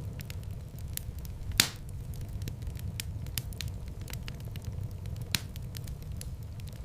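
Wood fire burning with a steady low rumble and scattered crackles, with a sharp loud pop about one and a half seconds in and a smaller one near the end.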